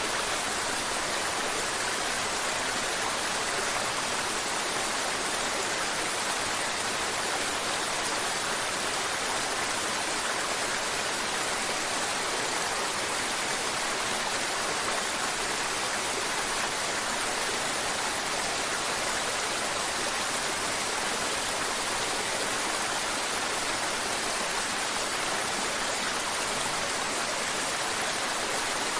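Mountain river water babbling and rushing in a steady, unbroken hiss.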